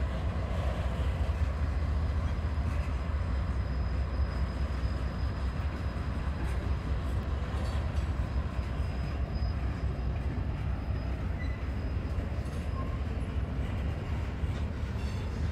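Freight train cars, covered hoppers and then boxcars, rolling past close by: a steady rumble of steel wheels on rail, with a faint thin high tone that fades out about two-thirds of the way through.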